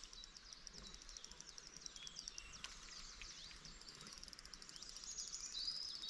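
Faint birdsong: several birds giving quick high chirps and trills that overlap, with a short held whistle near the end.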